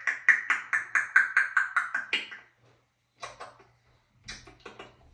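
African grey parrot making a rapid run of short, repeated calls, about five or six a second and sliding slightly lower in pitch, which stops about two and a half seconds in. A few softer clicks follow near the end.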